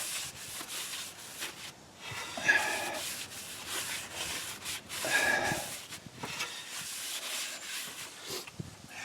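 A cloth rag rubbing across a freshly cleaned brake part, wiping off brake cleaner and fingerprints, in uneven strokes with louder swipes about two and a half and five seconds in.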